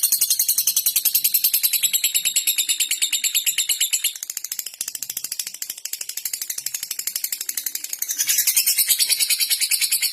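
Lovebird chattering in a long, rapid ticking trill, about a dozen even high notes a second, softer for a few seconds in the middle.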